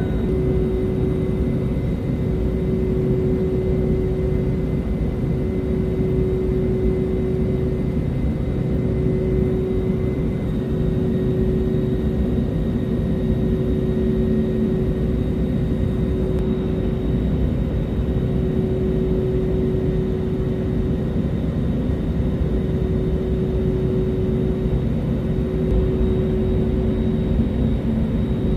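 Steady drone of an airliner's engines, with a constant hum over a low rumble.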